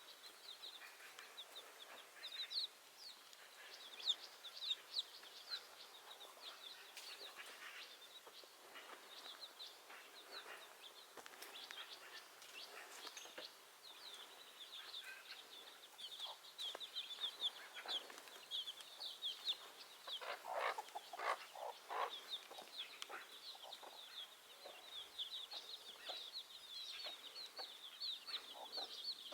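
Chickens: a steady chorus of short, high peeping chirps, with scattered lower clucks and a few sharper knocks about two-thirds of the way through.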